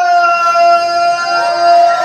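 A voice holding one long, slightly falling note, like the drawn-out last word of a ring announcer's welcome. Crowd noise starts to come in at the very end.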